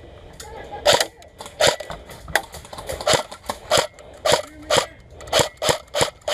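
A run of sharp snaps, about two a second and unevenly spaced.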